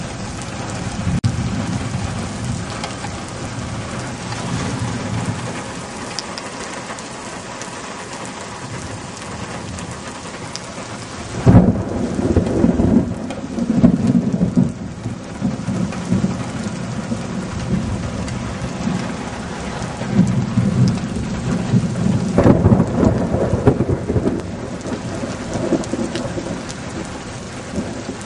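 Steady rain falling, with two loud thunderclaps, one a little before the middle and one about four fifths through, each rolling on in a low rumble for a couple of seconds.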